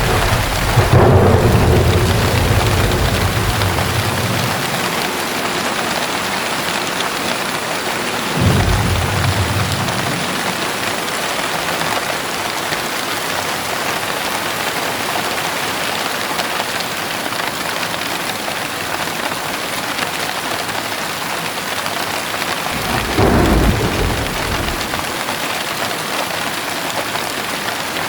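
Steady rain falling, with thunder rumbling three times: a long, loud roll in the first few seconds, a short one about eight seconds in, and another a few seconds before the end.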